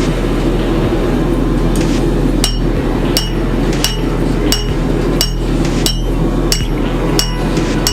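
Hand hammer striking steel on an anvil in a steady rhythm of about three blows every two seconds, each blow with a short metallic ring, over a steady low drone.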